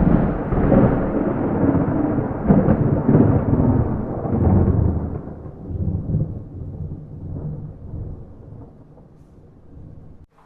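Thunder rumbling, with no rain: a loud roll that starts just before, surges a few times and slowly dies away over about eight seconds. A new peal breaks in right at the end.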